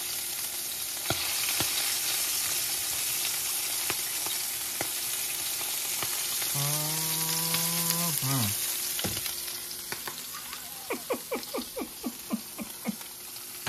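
Hog testicles frying in hot grease in a pan: a steady sizzle with scattered crackles and pops. A person's voice sounds once, drawn out, about halfway, and a quick run of light taps comes near the end.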